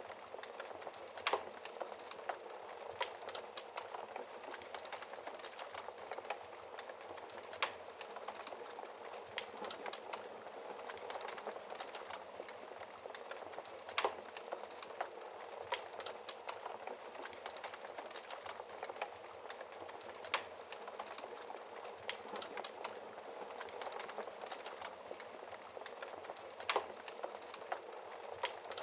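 Fire crackling steadily, a dense stream of small crackles with a sharper, louder pop every few seconds.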